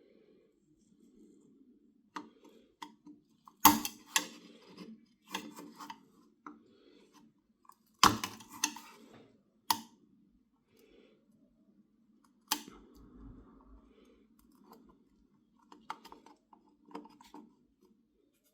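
Small hard parts being handled on a workbench: scattered clicks and knocks, the sharpest about four, eight and twelve seconds in.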